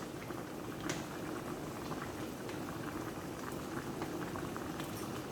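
Chicken adobo simmering in a pot, a steady bubbling with small pops and one sharper click about a second in, as the sauce is cooked down.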